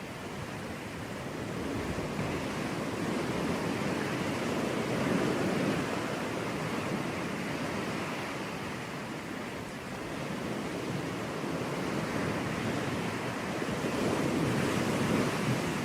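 Sea waves breaking and washing on a beach, the surf swelling and easing in slow surges, with some wind on the microphone.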